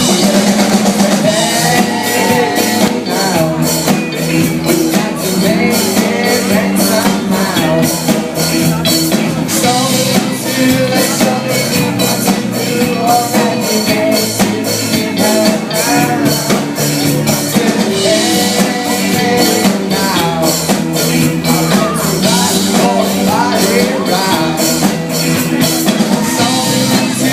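Live rock band with drum kit and electric guitars playing an instrumental passage, the drums keeping a steady beat.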